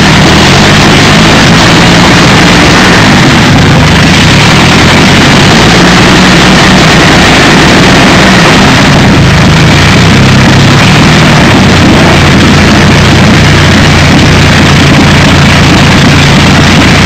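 The Napier-Bentley's 24-litre W12 Napier Lion aero engine running steadily at idle, very loud, its pitch wavering slightly, with flames spitting from the short exhaust stubs.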